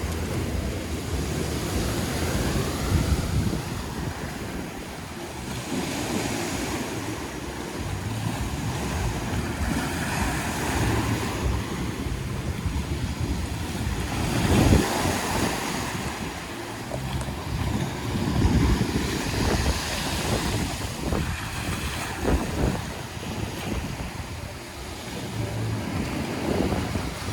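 Sea waves washing onto the shore, swelling and falling, with wind buffeting the microphone in low rumbling gusts; the loudest surge comes about halfway through.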